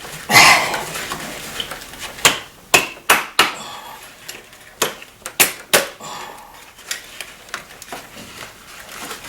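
Metal tools and engine parts clinking and knocking irregularly, a dozen or so sharp clacks with a brief clatter near the start, as work goes on in the engine bay after spark plug replacement.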